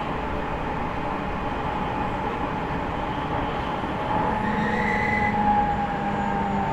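Running noise inside an E501-series EMU motor car: a steady rumble of wheels on rail. About four seconds in, a whine from the Toshiba IGBT inverter-driven traction motors sets in, falling slightly in pitch.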